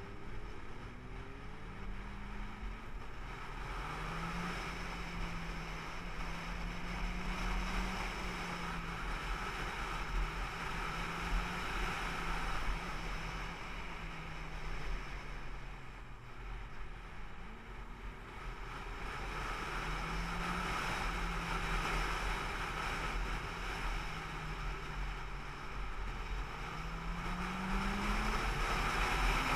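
Car engine running on the road, its note climbing as it accelerates and falling back several times, over steady road and wind noise.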